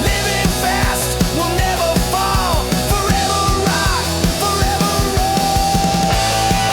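Hard rock music: an electric guitar lead plays bent notes and settles on a long held note near the end, over steady drums and bass.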